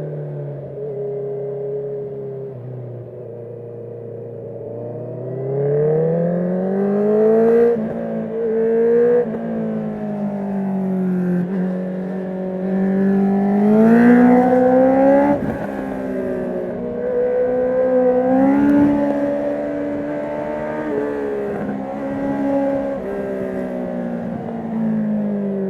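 Honda CB650R inline-four through an Akrapovic full titanium exhaust with the dB killer removed, pulling hard with the revs climbing, then dropping sharply at shifts, and easing off for bends. The note sinks low for a couple of seconds early, then rises and falls again and again, loudest about halfway through.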